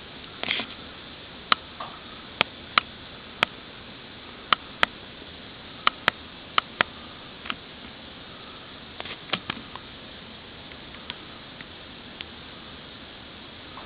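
Wood fire crackling in an open fireplace: irregular sharp pops and snaps, some close together in pairs, over a steady hiss.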